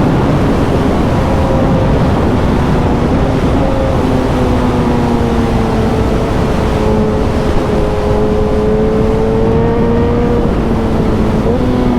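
Suzuki motorcycle engine running under way at a fairly steady pitch that dips slightly and rises again near the end, over heavy wind rush on the microphone.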